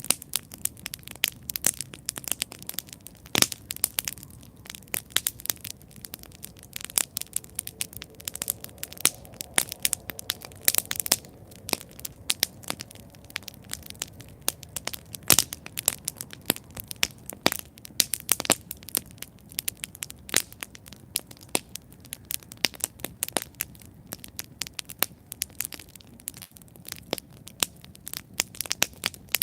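Wood campfire burning, crackling and popping irregularly over a soft steady hiss, with a few sharper pops standing out.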